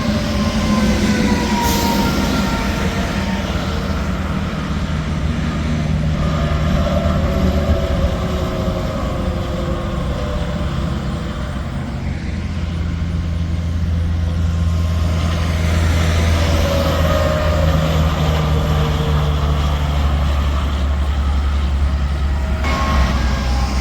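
Interstate highway traffic: trucks and cars passing with steady engine and tyre noise, the whine of passing vehicles dropping in pitch as they go by several times. A short sharp clank sounds about a second and a half in.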